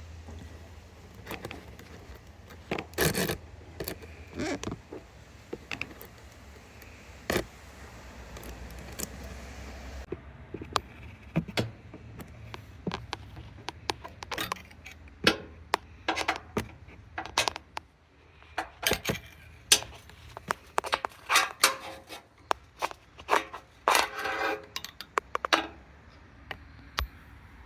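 Irregular metallic clicks, knocks and scrapes of a magnet being worked around inside a mini excavator's hydraulic oil tank to pull out metal shavings. The clicks come much thicker in the second half.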